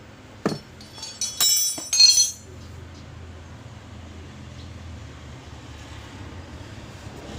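A thump, then about a second of loud metallic clinking and clattering from the Meiling washing machine, followed by a steady low hum of the machine running.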